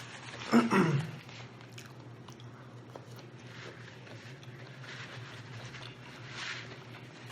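Close-miked chewing and eating noises from someone working through rotisserie chicken, over a steady low hum. About half a second in comes a short, loud voice-like sound that falls in pitch.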